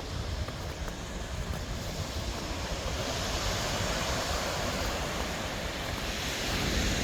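Gentle ocean surf washing onto the beach, small waves rather than rough water, with wind rumbling on the microphone.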